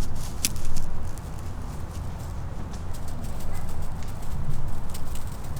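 Irregular footsteps and light knocks on a dirt trail, over a steady low rumble.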